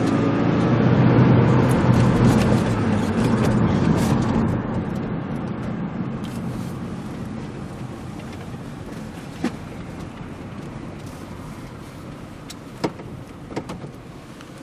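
A motor vehicle accelerating, its engine note rising, then fading steadily away under wind noise. A few sharp clicks come near the end.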